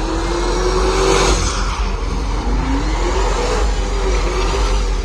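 Car engine revving hard in a burnout, its pitch wavering and sweeping up and down over a dense rush of tire noise.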